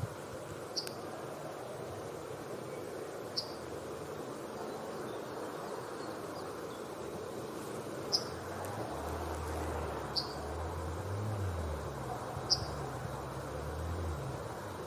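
Yellowhammer giving short, sharp high call notes, five of them a few seconds apart, over a steady background hiss. A low hum comes in about nine seconds in and fades near the end.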